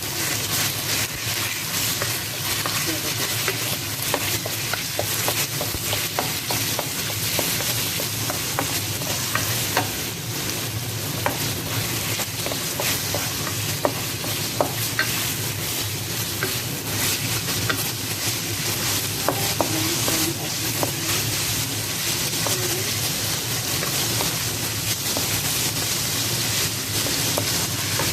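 Carrots stir-frying in hot oil and garlic in a wok: a steady sizzle, with the spatula scraping and clicking against the pan over and over.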